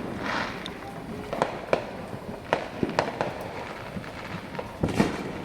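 Fireworks and firecrackers going off: sharp bangs and pops at irregular intervals, some louder than others, with a brief fizzing hiss at the start.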